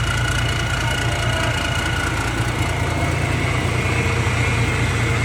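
Hino H07D diesel engine of a self-propelled forage harvester running steadily, with a deep even rumble and a faint steady whine above it.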